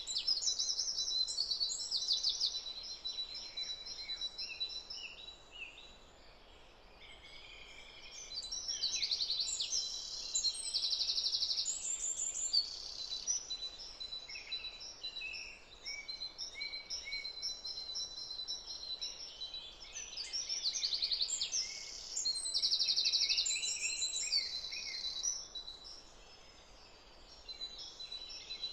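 Several songbirds singing and calling at once, a busy mix of quick chirps and trills with a steady thin high tone underneath; the singing thins out twice into brief lulls.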